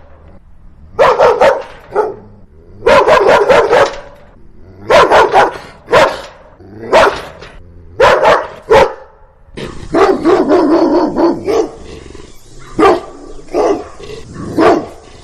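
Dog barking in repeated bursts of a few quick barks each, with short pauses between bursts. From about ten seconds in, a steady hiss sits under the barks.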